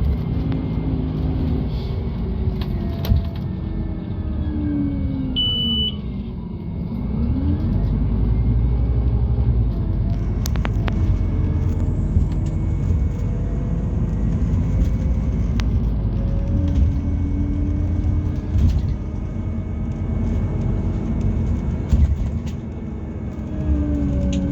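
Scania Citywide LFA natural-gas bus with a Scania OC09 engine and ZF gearbox, heard from on board while driving: a steady low rumble with a whine that glides down about five seconds in, then rises again as the engine pulls harder and the rumble grows louder. A brief high beep sounds about five seconds in.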